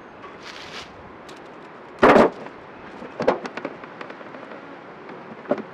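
A loud, short thump about two seconds in, then a few lighter knocks and clicks: equipment being handled and moved.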